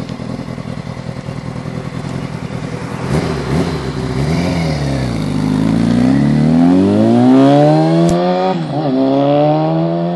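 Kawasaki ZX-6E's 600 cc inline-four running through cut-down, gutted stock mufflers: a pulsing idle, then the engine note rises and falls, and then climbs steadily for several seconds with a short dip near the end.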